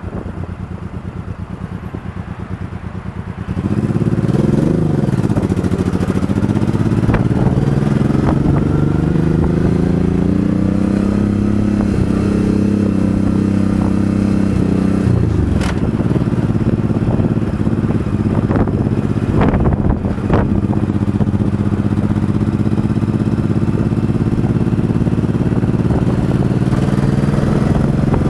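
Motorcycle engine idling with a fast steady pulse, then about three and a half seconds in it revs up and pulls away. Its pitch climbs, dipping briefly twice at gear changes, and it then runs steadily under way.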